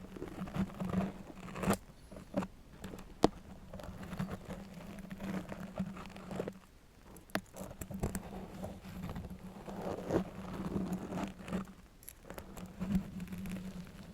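Close-miked scratching and stroking with a long metal nail, broken by a few sharp taps.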